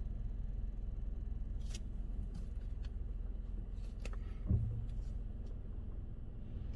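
Car engine idling, a steady low rumble heard from inside the cabin, with a few faint clicks and a soft bump about four and a half seconds in.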